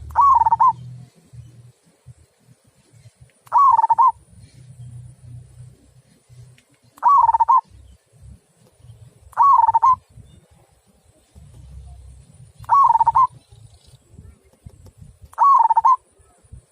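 Local zebra dove (perkutut) singing its 'kung' song: six short, stuttering coos, each about half a second long, repeated every few seconds. A faint low rumble lies between the coos.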